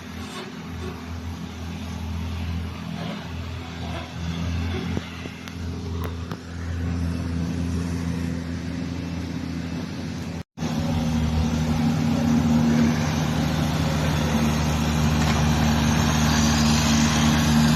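Heavy diesel truck engine pulling steadily uphill, getting louder as the truck approaches. The sound cuts out for an instant about ten seconds in, then returns louder.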